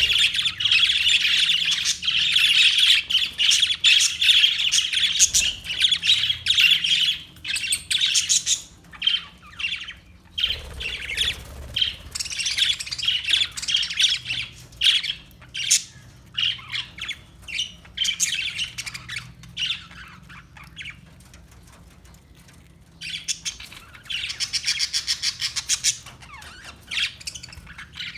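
Parakeets chirping and squawking: a dense, continuous chatter of high calls, then thinning to scattered chirps, a short lull, and another quick run of chirps near the end.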